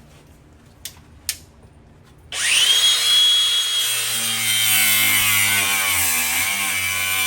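Two light clicks, then an electric power tool switches on about two seconds in and runs with a high whine that slowly sinks in pitch.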